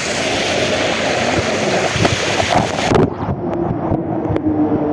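Heavy rain hissing steadily, cut off abruptly about three seconds in, after which a steady droning tone and a few sharp clicks are heard.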